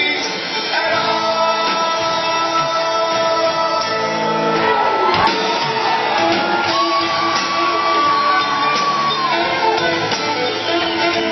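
Rock band playing live with guitars and drums. A lead line of long held notes sweeps over it: one slides down in pitch about four seconds in, and another is held for about three seconds before bending down.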